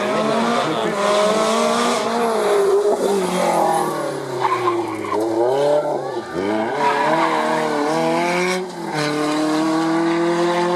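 Rally car engine worked hard on a special stage: its pitch falls as the car slows, dips sharply about six seconds in, climbs again, breaks off briefly near nine seconds at a gear change, then rises steadily under acceleration.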